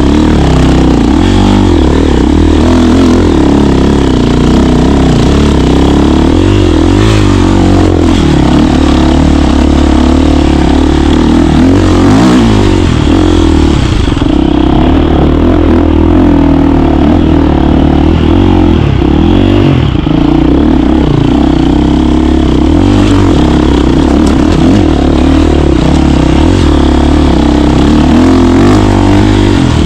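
KTM 350 dirt bike's single-cylinder four-stroke engine running hard while riding, the revs rising and falling with the throttle.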